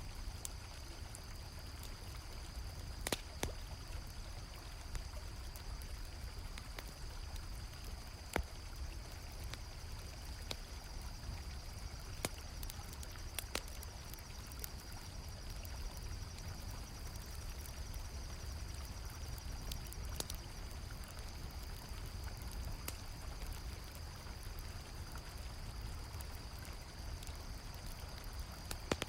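Mixed night ambience: a river flowing steadily, with sharp crackles and pops from a campfire and a continuous high trilling of crickets.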